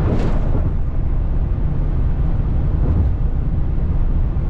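Wind buffeting the microphone on a motorcycle at highway speed: a steady low rumble with road and engine noise underneath.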